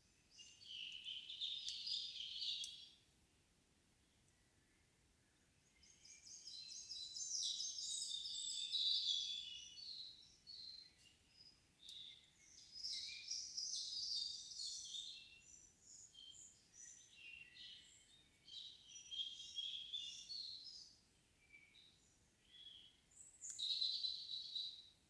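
Songbirds singing in the evening forest: a short phrase in the first few seconds, then longer runs of quick, high warbling notes from about six seconds on, broken by brief pauses, and a last phrase near the end, over a still, windless background.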